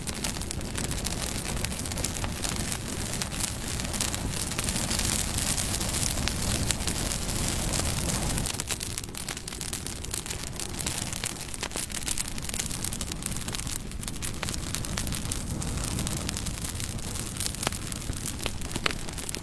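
Bonfire burning: a steady rush of flames with scattered sharp crackles and pops of burning wood. The low rumble eases about eight seconds in, and a few louder pops come near the end.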